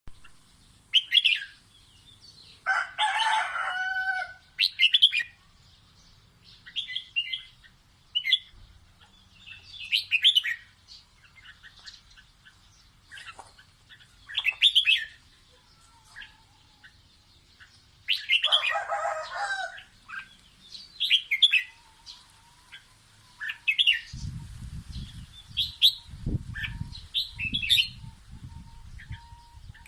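Red-whiskered bulbul singing short, bubbly whistled phrases over and over, with pauses between them. Twice, about three seconds in and again near the middle, a longer, lower call with a fuller tone breaks in, and a low rumble comes in near the end.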